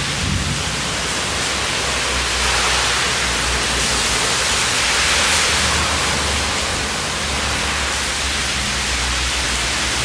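Rain-swollen river water rushing after a downpour: a loud, steady hiss with a low rumble beneath it.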